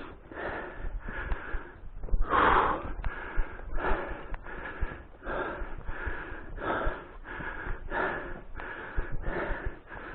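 A person breathing hard in steady, rhythmic puffs, about one and a half breaths a second, winded from climbing steeply uphill on foot. One breath about two and a half seconds in is louder than the rest.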